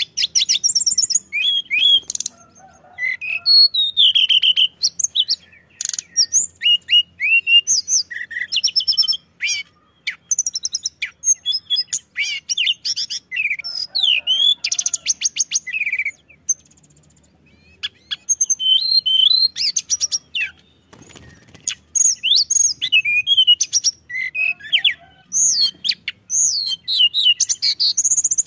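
Tledekan gunung singing at full pace: a rapid, varied run of high chirps, trills and whistles, with a short pause a little past halfway.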